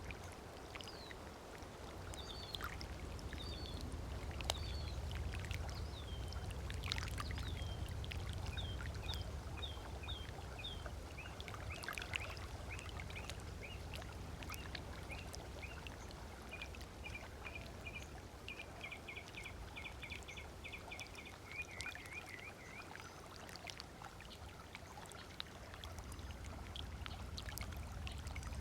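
Small waves lapping on a sandy shore over a low steady rumble, with birds calling in quick series of short chirps, running into a fast trill about twenty seconds in.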